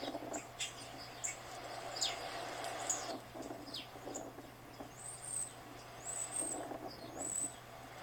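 Small birds chirping from a bird video played back for a cat: many quick downward-sweeping chirps, then three high arching calls about a second apart in the second half.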